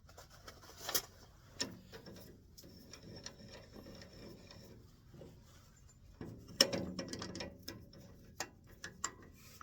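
Scattered metal clicks and small knocks of wood lathe fittings being handled as the spur drive center is taken out of the headstock, with a busier burst of clatter about six and a half seconds in.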